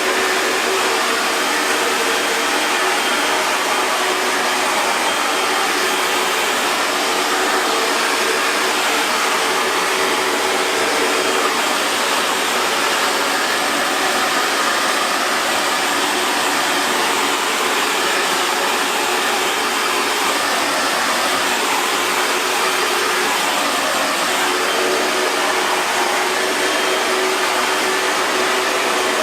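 Electric hair dryer running steadily on one setting: an even rush of blown air over a motor hum, unchanging throughout.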